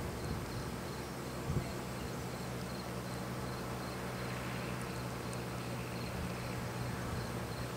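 Insects chirping in a steady, rapid repeating pattern, with a faint steady low hum underneath.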